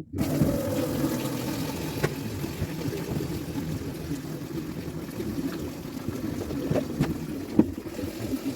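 Water running steadily, as from a tap, starting abruptly, with a few light knocks of things being handled about two seconds in and twice near the end.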